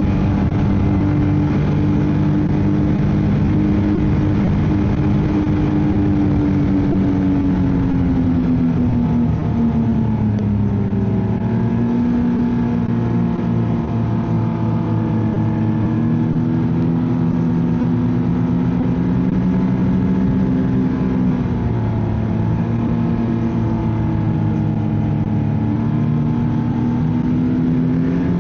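Ski-Doo snowmobile engine running steadily at cruising speed, easing off about a third of the way in and then slowly picking up again toward the end.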